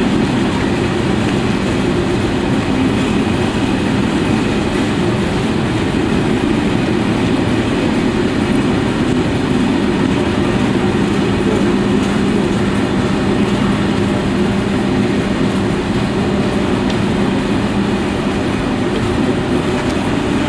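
Eurostar Class 373 train rolling past on the station tracks: a steady, unbroken rumble of wheels on rail with a constant low hum.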